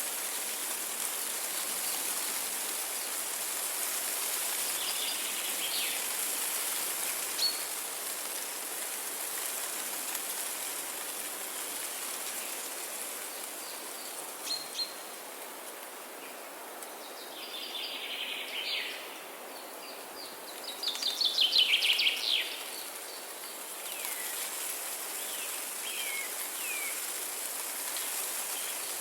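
Songbirds calling over a steady background hiss of trickling water: scattered short high chirps, then two rapid trilling songs, the second, shortly after, the loudest.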